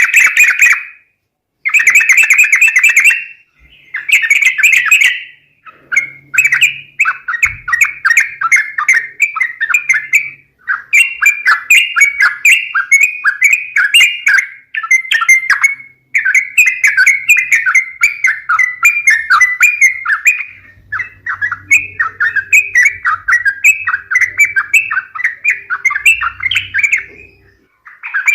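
Yellow-vented bulbul (trucuk) calls played as a bird-lure recording: loud bubbly chattering phrases, a few short bursts with pauses at first, then long runs of quick notes with brief breaks.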